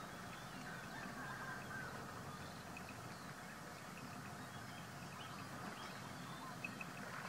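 Faint outdoor ambience of steady hiss with scattered short, high chirping bird calls and one brief gliding call about a second in.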